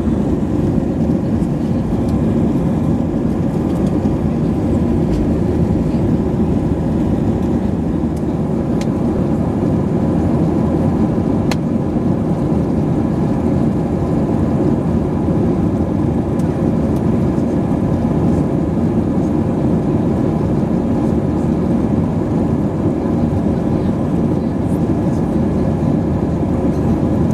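Steady cabin noise inside an airborne Airbus A320-232: the even roar of its IAE V2500 turbofan engines and the airflow over the fuselage, with a faint steady hum mixed in.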